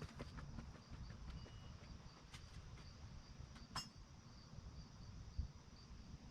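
A few faint, sharp metallic clicks of a wrench working on skid-plate bracket bolts, the clearest near the middle, over a faint high chirp that repeats evenly about twice a second.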